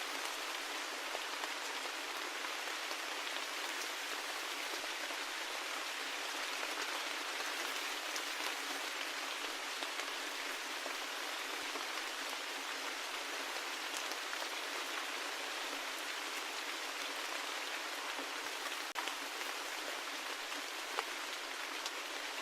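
Steady rain falling, an even hiss of drops with a few sharper drips standing out now and then.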